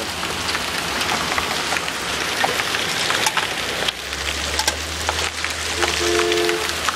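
Hail pelting down on the ground and nearby surfaces: a dense, steady hiss with scattered sharp clicks of individual stones striking. A low hum rises about four seconds in, and a short horn-like chord sounds near the end.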